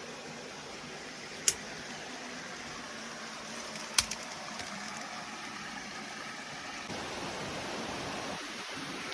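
Steady rushing of creek water over rocks, with two sharp clicks, one about a second and a half in and a louder one about four seconds in. The rushing grows slightly louder near the end.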